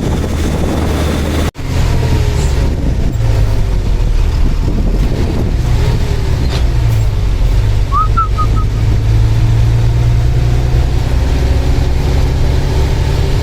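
Truck engine running steadily while the truck drives, a deep steady rumble with its pitch shifting a little. The sound drops out sharply for an instant about one and a half seconds in.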